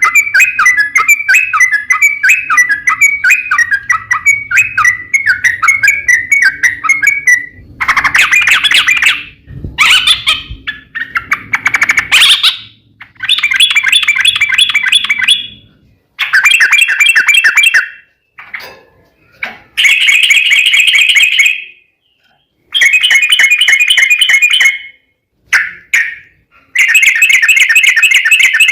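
Yellow-vented bulbul (trucukan) singing: a quick run of chattering notes for the first seven seconds or so, then a series of fast rolling trills, each one to three seconds long, with short pauses between.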